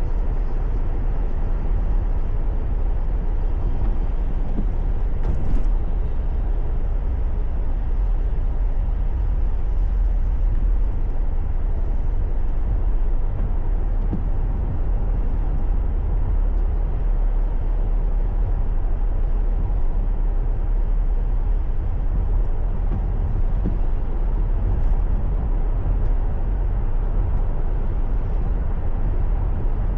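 Steady road noise of a car being driven, picked up by a dashcam inside the car: a constant low rumble of tyres and engine. There is a brief click about five seconds in.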